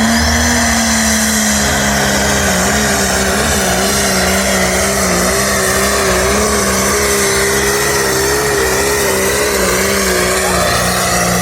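Pulling tractor's engine running at high, nearly steady revs under heavy load as it drags the weight-transfer sled down the track, its pitch wavering slightly.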